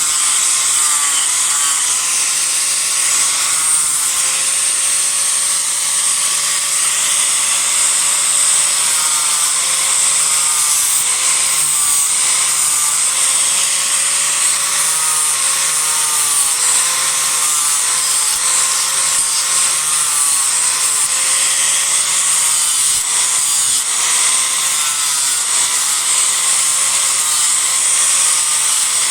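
Disc grinder cutting into a block of Japanese cedar to rough out a carving: a continuous gritty grinding with a motor whine that dips and recovers in pitch again and again as the disc bites into the wood.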